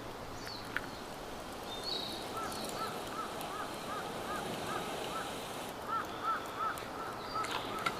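A bird calling outdoors: a run of short, evenly spaced arched notes, about three a second, beginning a couple of seconds in and lasting about five seconds.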